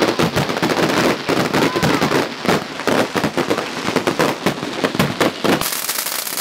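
Many fireworks and firecrackers going off in quick, irregular succession, a dense barrage of bangs and pops. Near the end it turns into a thicker crackling hiss.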